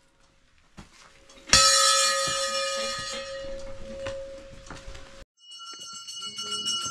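After about a second and a half of near silence, a Hindu temple bell is struck once and rings out with several clear tones, slowly dying away. It cuts off abruptly, and a higher-pitched bell ringing follows near the end.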